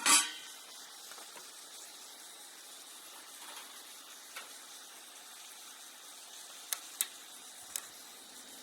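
Steady hiss of steaks searing in a pan on a camp stove, opening with a short sharp clatter and broken by a few light clicks about seven seconds in.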